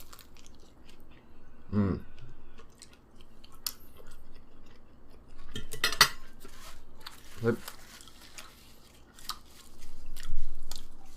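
Close-miked eating sounds: chewing and scattered clicks of cutlery and dishes, with a couple of brief voiced sounds and a louder thump near the end.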